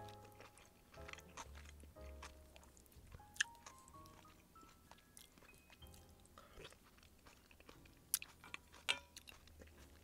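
Close, quiet chewing and crunching of food, with a few sharp clicks, over soft background music.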